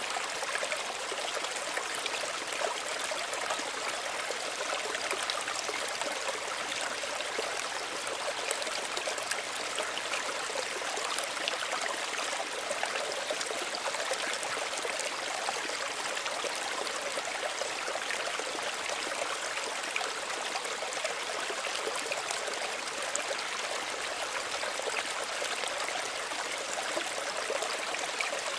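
Small stream running steadily, water trickling and babbling over stones with a light, high splashy texture and little low rumble.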